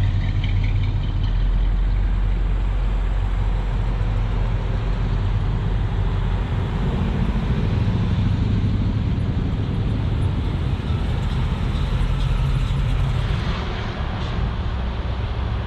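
Steady low rumble of a motor vehicle running at low speed, with no distinct events standing out.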